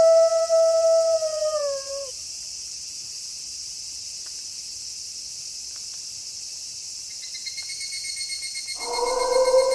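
Wolf howling: one long steady howl bends down in pitch and fades out about two seconds in, and a new long howl begins near the end. Behind it runs a steady high hiss of night insects, joined about seven seconds in by a rapid pulsing cricket trill.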